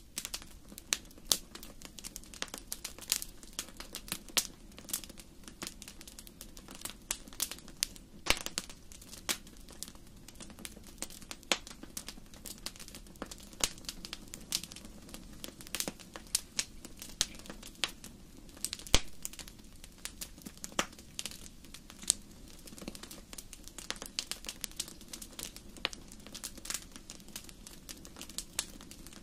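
Wood fire burning in a fireplace: a steady low rumble with frequent irregular crackles and sharp pops.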